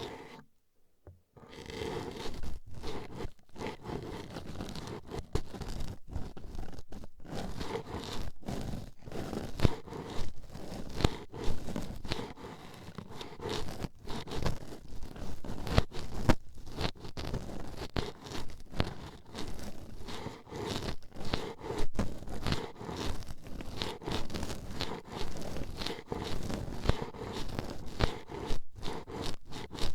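Toothpicks poking and scraping at an ASMR microphone's ear, a dense run of quick, irregular scratchy, crackling strokes close to the mic. There is a brief pause about a second in before it starts again.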